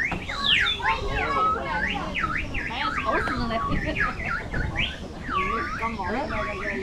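Several birds singing: quick, overlapping whistled notes that sweep up and down in pitch, with faint voices underneath.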